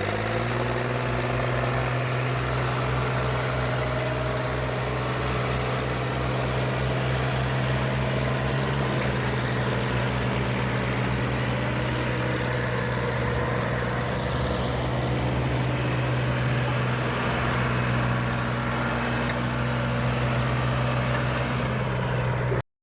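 Tractor diesel engine running at a steady speed: an even hum with a fast low throb beneath it. It cuts off suddenly near the end.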